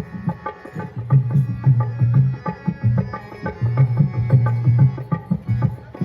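Rajasthani folk music for the Ghoomar dance without singing: a hand drum keeps a fast, even rhythm of deep strokes under a melodic accompaniment. The drumming breaks off near the end.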